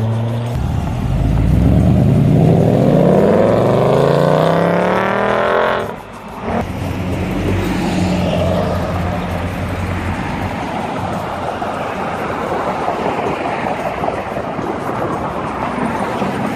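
Car engine accelerating hard, its pitch climbing steadily for about five seconds. It breaks off sharply about six seconds in, then runs on at a steadier, lower note that gives way to a rushing noise.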